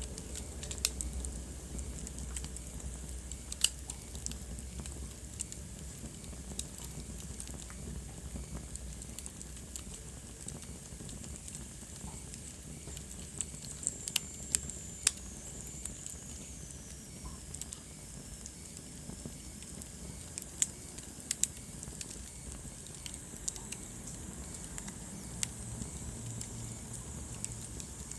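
Wood fire burning in a fireplace: a steady low rush of flames with scattered sharp crackles and pops, several close together about halfway through. A faint high whistle slides down in pitch around the middle.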